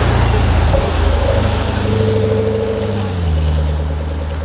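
Car engine and exhaust rumbling at low revs as a modified car pulls away, its pitch stepping down about three seconds in.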